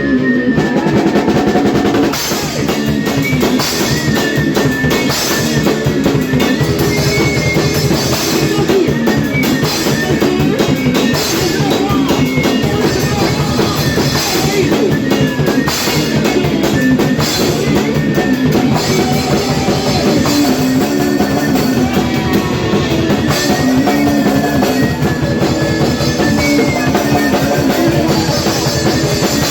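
Hardcore punk band playing at full volume with an 80s-style riff: rapid drum kit beat with bass drum, distorted electric guitar and bass. The full band kicks in near the start after a guitar part.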